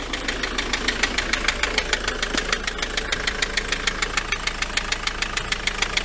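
Ford Transit van's diesel engine idling just after starting, with a fast, even rattle or knock ticking over the steady engine sound; the cause is unknown to the owner, who places it somewhere in the engine bay.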